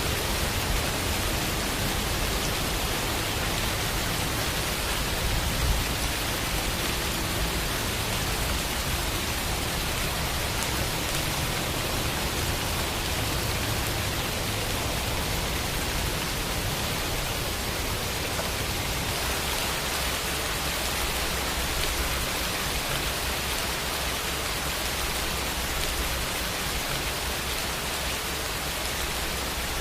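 Steady rain falling, an even hiss of many drops with no other sounds.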